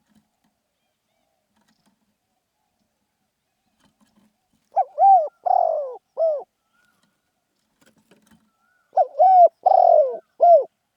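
Spotted dove cooing: two phrases of four coos each, about four seconds apart, the third coo in each phrase the longest.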